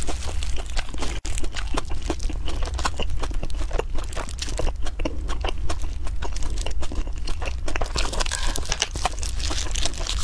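Close-miked chewing of crispy roast duck, crunching in dense, rapid crackles over a low steady hum. Near the end, plastic food gloves crinkle as hands wrap the duck in a pancake.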